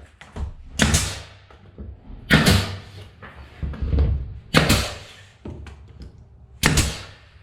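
A wooden floor transition strip being nailed down: four loud, sharp strikes roughly two seconds apart.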